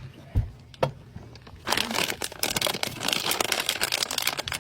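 Plastic MRE flameless ration heater bag crinkling as it is handled with water just added: two light knocks, then from about a second and a half in, a loud, dense crinkle.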